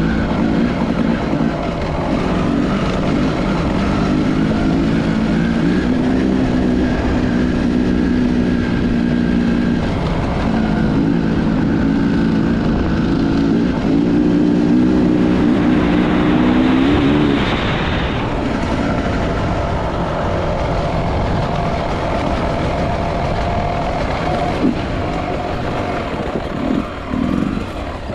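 Enduro motorcycle engine running under way, its pitch rising and falling with the throttle. There is a harder burst of throttle about two thirds of the way through, and the sound becomes choppier near the end.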